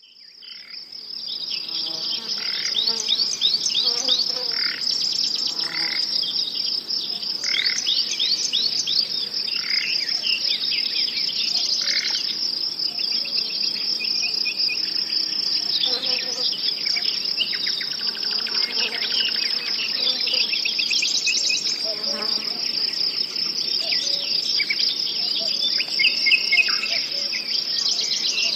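Nature ambience of insects trilling steadily, crickets by their sound, with many birds chirping in short, quick calls over it. It fades in over the first couple of seconds.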